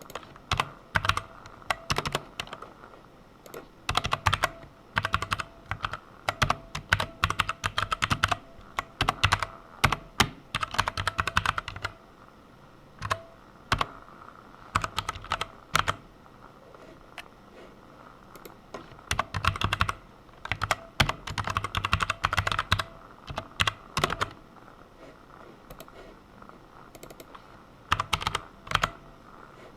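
Computer keyboard typing in quick bursts of key clicks, with short pauses between runs.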